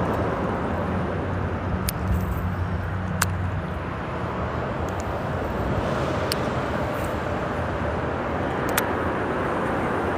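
Steady road noise of freeway traffic on the bridge overhead, with a low vehicle drone that fades about four seconds in. A few brief sharp clicks sound over it.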